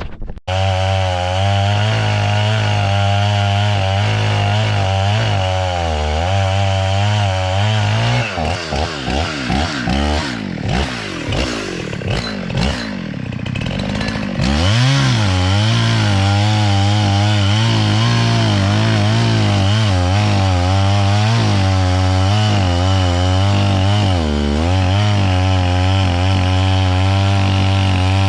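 Two-stroke chainsaw running at high speed, cutting through a tree. Partway through, the engine speed rises and falls unevenly for several seconds before it settles back into a steady full-speed run.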